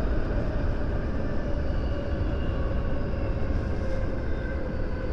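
JR West 223-series electric train running on the rails, a steady low rumble heard from inside the front car. A faint whine slowly falls in pitch, typical of the train slowing.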